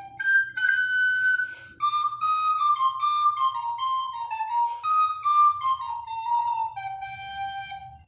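A recorder playing a melody of clear notes that steps downward and ends on a long held final note, which stops near the end.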